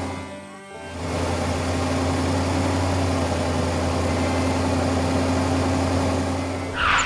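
Heavy vehicle engine idling steadily, with a brief dip in level about half a second in. A short whoosh comes near the end.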